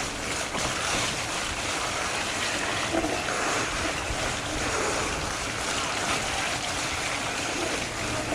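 Steady rushing of wind over the microphone mixed with the rumble of a fat bike's wide tyres rolling over a dirt trail.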